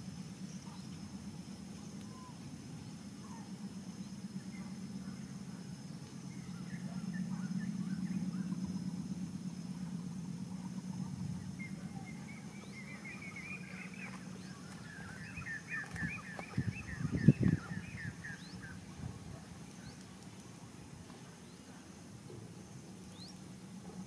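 Outdoor countryside ambience: a steady low rumble with faint high steady tones, and a bird calling in quick runs of chirps from about halfway through. A few knocks or thumps about two thirds of the way in are the loudest sounds.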